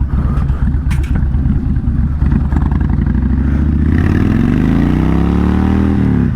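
Kawasaki VN1600 Mean Streak's V-twin through Vance and Hines pipes, pulling away and accelerating hard: a low, lumpy rumble whose pitch climbs steadily from about four seconds in, then drops abruptly near the end as the revs fall at an upshift.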